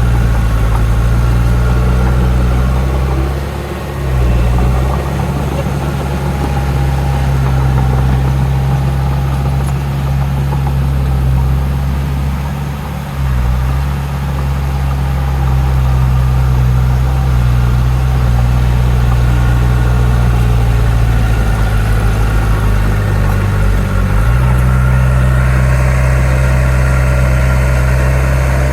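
Heavy diesel engine of earthmoving machinery running steadily with a deep hum, its note easing briefly about four and thirteen seconds in and shifting near the end.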